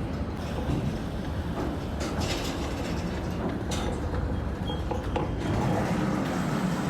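Steady rumble of a vehicle in motion, with a few short knocks and clicks.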